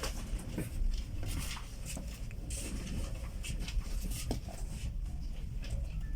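Steady low rumble inside a passenger train carriage, with scattered light clicks and rustles on top.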